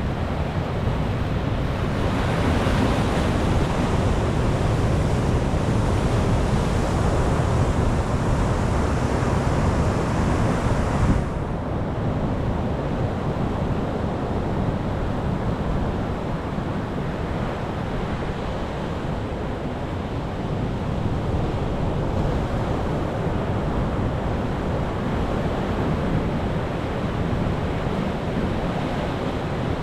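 Sea waves breaking and washing on the shore in a continuous surf. A brighter hiss rises about two seconds in and cuts off suddenly about eleven seconds in, after which the surf runs on more softly.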